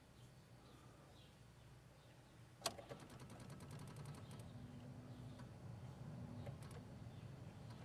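VW Beetle failing to start when the key is turned: one sharp click, then a quick run of faint clicks lasting about a second and scattered clicks after, with a faint on-off low hum. This is the no-start clicking of an intermittent electrical fault.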